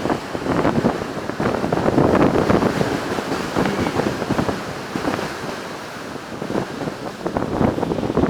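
Strong wind buffeting a smartphone microphone: an irregular gusty rumble that eases off a little past the middle and picks up again near the end.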